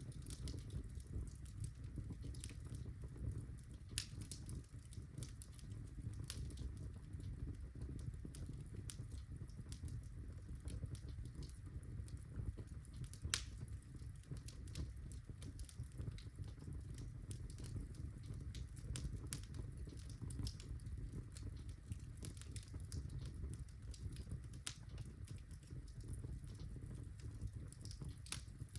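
Birchwood fire burning in a fireplace: a steady low rumble of flame with irregular crackles and small pops of the burning logs.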